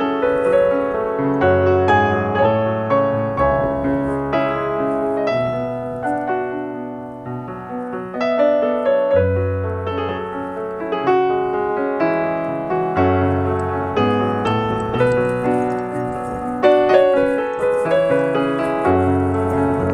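Background piano music: a continuous run of notes over a changing bass line.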